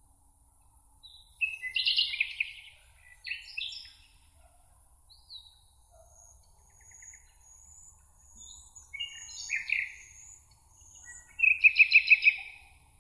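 Songbirds singing: several short song phrases a second or two apart, the loudest a quick run of repeated notes near the end, with faint thin high notes from another bird in the middle. A steady faint high hiss lies under it all.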